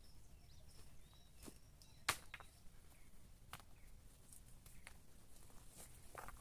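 Scattered sharp snaps and clicks of someone working by hand at a woodland camp, handling sticks or gear. The loudest snap comes about two seconds in, with faint high chirps of birds or insects under it.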